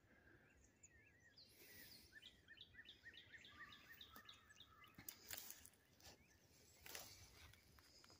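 Faint songbird song: a run of quick, evenly repeated chirping notes, about three a second. A few crunching footsteps on dry leaves and grass come near the end.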